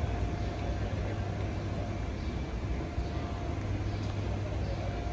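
Long Island Rail Road train giving a steady low rumble, with a faint high tone that comes and goes.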